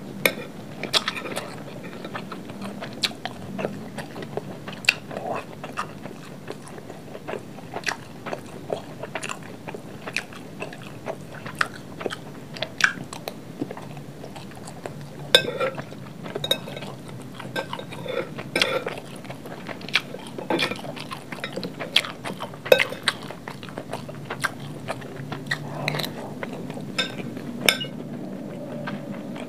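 Close-up chewing of fried rice, with crunches and wet mouth sounds, and a metal spoon clinking and scraping on a glass plate as it scoops. There are many sharp clicks throughout.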